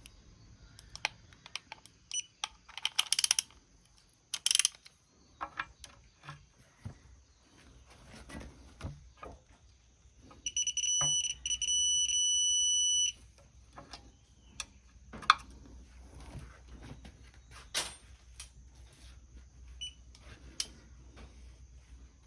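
Digital torque wrench adapter beeping about halfway through: a few short beeps, then one long steady high-pitched beep, the signal that the set torque of 30 N·m has been reached. Before and after it come scattered metallic clicks and knocks of hand tools on the engine.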